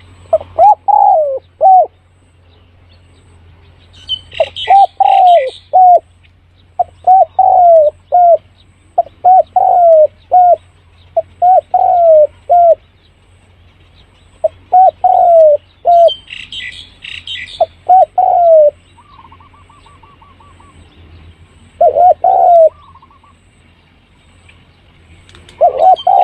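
Spotted dove cooing over and over in short phrases of three or four falling notes, one phrase every two or three seconds, with a longer pause before the last two. Smaller birds twitter briefly in between.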